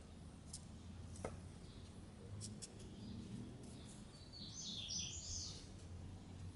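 Quiet outdoor background with a bird chirping in a short burst about two-thirds of the way through. Before the chirps come a few faint clicks and scrapes from hands and a spoon working in coarse wet sand.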